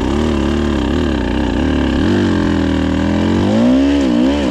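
Dirt bike engine running at low speed, its pitch rising and falling in a string of small throttle blips, with a bigger rev near the end.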